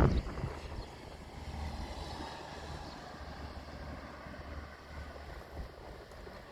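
Wind buffeting the microphone in a few low thumps at the start, then a steady low rumble.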